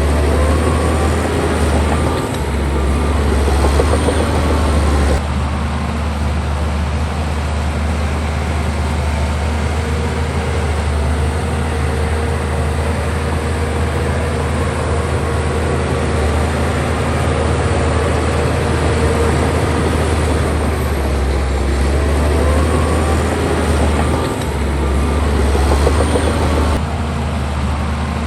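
Bulldozer's diesel engine running steadily under load, with two louder, busier stretches near the start and again about three quarters of the way through.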